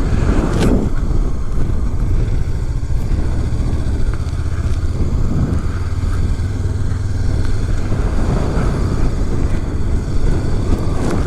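Honda CB500X parallel-twin engine running steadily under way as the motorcycle climbs. It is working at high altitude, where the rider calls the bike "definitely winded".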